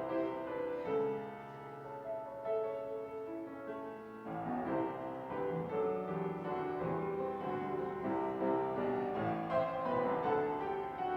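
Piano playing slow music in sustained chords, the notes changing about once a second.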